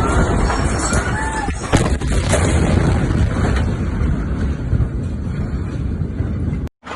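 Rumbling and cracking of a massive explosion, heavy in the lows, with one sharp crack about two seconds in. The sound cuts out abruptly near the end.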